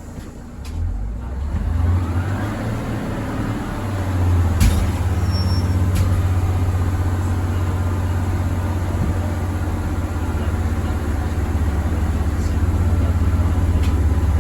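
Diesel railway engine running up from a lower note to a steady, heavy low drone over the first few seconds, with a brief rising whine early on and a few sharp clicks.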